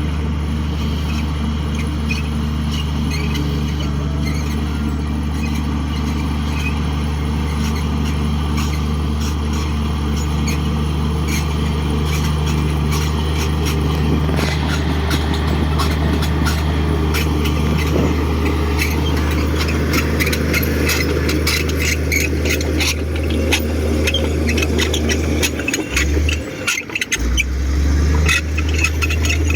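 Komatsu D58 bulldozer's diesel engine running steadily under a low, even drone, with a rapid clatter building up from about halfway through. Near the end the engine note briefly falls away and then picks back up.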